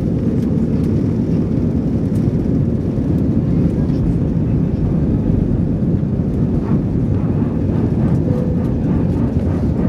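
Airbus A320 jet engines and airflow: a steady low roar that holds even throughout.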